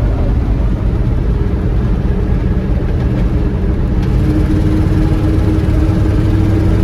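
1973 Chevy K20 pickup under way, its engine running with loud low drive and road noise; about four seconds in a steady engine drone comes up over it.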